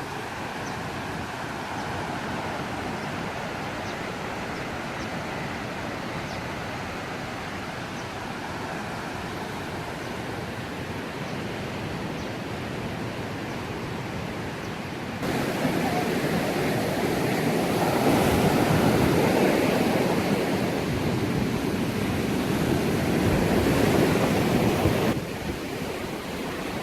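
Sea waves washing onto a sandy beach, with some wind on the microphone. The wash gets suddenly louder about fifteen seconds in and drops back shortly before the end.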